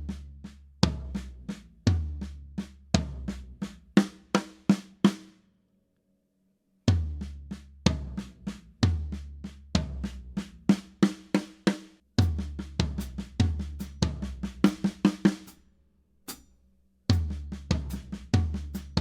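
Drum kit playing a fill in groupings of three (right-left-left), with the right hand moving between the rack tom and the floor tom and each phrase ending right-left on the snare, over bass drum. The fill is played several times with short breaks between.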